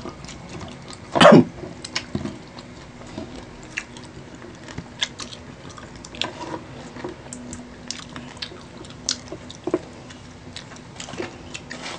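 Close-miked chewing and mouth sounds of people eating skewered fried fishballs: wet, irregular clicks and smacks, with one louder bite about a second in.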